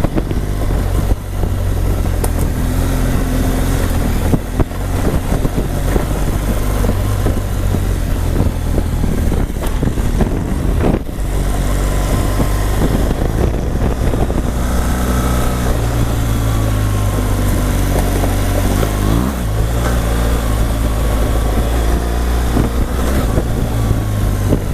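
BMW R1200GS boxer-twin engine running steadily as the motorcycle rides a dirt trail, its pitch rising and falling with the throttle. A few sharp knocks come through, about a second in, near five seconds, and around eleven seconds.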